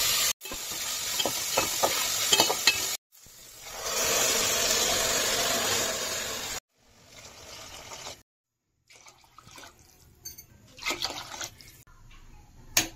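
Chopped onions, green chillies and whole spices sizzling in hot oil in an aluminium pot, with a spoon clinking against the pot as they and then the rice are stirred, in short clips that cut in and out. About two-thirds of the way through the sizzling stops, leaving faint clinks and one sharp clink of a utensil near the end.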